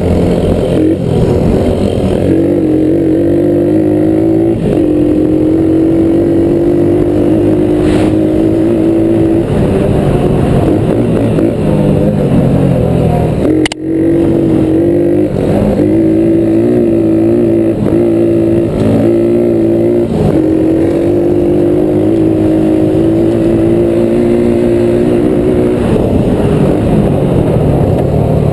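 Small single-cylinder four-stroke engine being ridden, mostly at steady throttle, its pitch stepping up and down as the revs change. There is a brief sharp break about halfway through.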